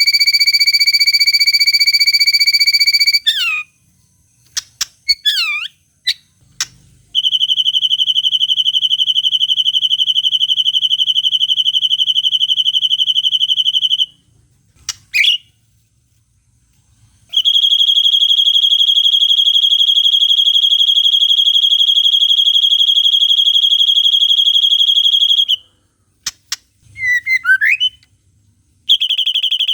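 White-rumped shama (murai batu) song track of long, even, buzzing trills held at one steady high pitch. There are three long runs, the longest about eight seconds, and a fourth begins near the end. The runs are broken by brief, quick, sweeping chirps.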